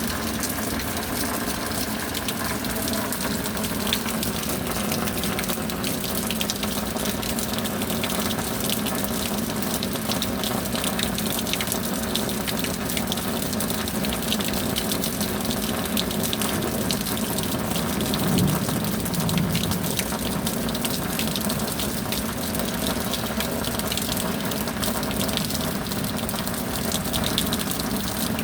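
Steady rain with a continuous rush of running water and many fine drop ticks, briefly louder about two-thirds of the way through.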